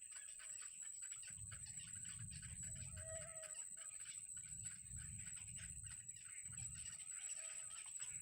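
Bird calls with clucking, many short chirps throughout, over a steady high-pitched tone and patches of low rumble.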